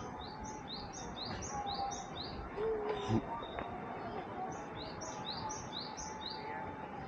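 A small songbird singing two quick runs of high, rapidly repeated chirps that alternate between two pitches, with a pause of about two seconds between the runs. A brief lower sound comes near the middle.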